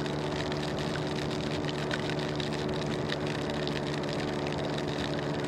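Motor scooter engine running at a steady speed, its drone holding one even pitch, with a hiss of wind and rain over it.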